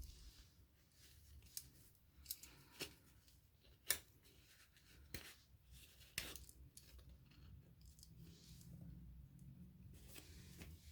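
Quiet, scattered metallic clicks and snaps of a Swiss Army knife being handled, its folding tools worked open and shut, about eight sharp ticks spread across several seconds with the loudest about four seconds in.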